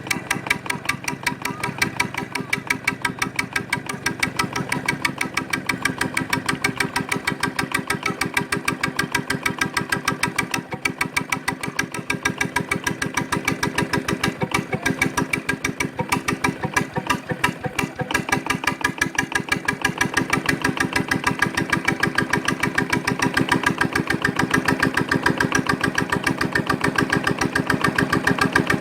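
Victor diesel engine running a Keystone electric generator, with a steady, even beat of firing strokes that grows a little louder in the second half.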